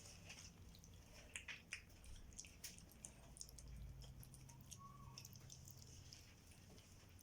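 Near silence, with a few faint ticks in the first half and a low faint hum later on.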